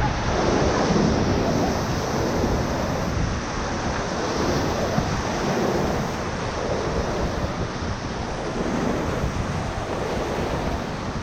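Rushing whitewater of a high-water river rapid: a steady, dense wash of churning water, with wind noise on the microphone.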